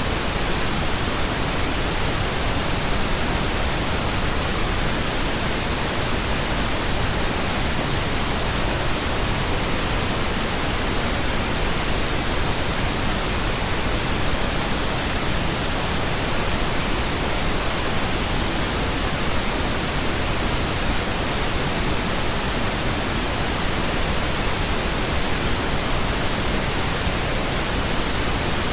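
Pink noise: a steady, unchanging hiss across all pitches, with no breaks or events.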